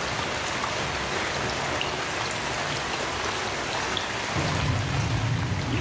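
Heavy rain falling steadily, with scattered drops ticking. A low rumble of thunder comes in about four and a half seconds in.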